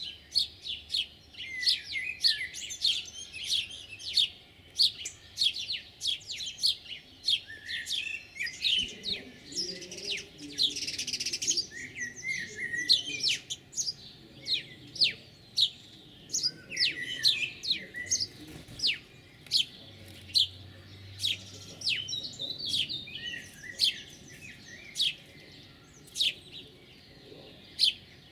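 Small songbirds chirping steadily: many short, sharp downward chirps, a few a second, mixed with twittering that thickens for a few seconds in the middle.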